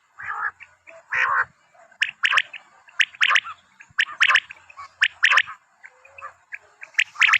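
Black francolin calling: repeated harsh phrases of a few quick, sharp notes, one phrase about every second. Two rougher, scratchier calls come in the first second and a half.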